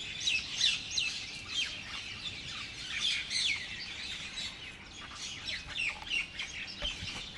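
A chorus of small birds calling: many short, high chirps that slide down in pitch, overlapping one another in quick succession.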